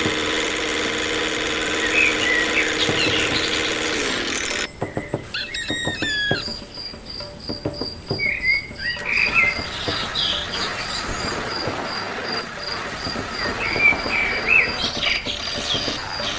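Insects trilling in a steady pulsed high tone, with birds chirping now and then. A steady hum plays through the first four seconds and then stops.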